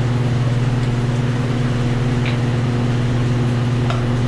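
Steady electric machine hum with a fan-like rush, from shop equipment running in the mixing room. A few faint light clicks come about halfway through and near the end.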